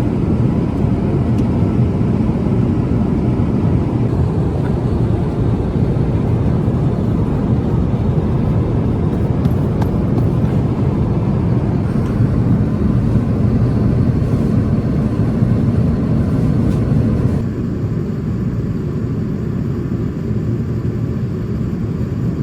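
Steady rumble of an Airbus A350-900 airliner cabin, with engine and airflow noise heavy in the low end. About two-thirds of the way through it drops a little in level and loses some of its hiss.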